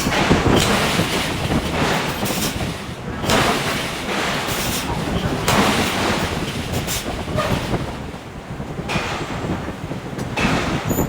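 Hydraulic forging hammer at work: heavy strokes land about every two seconds over a steady rumble of shop machinery.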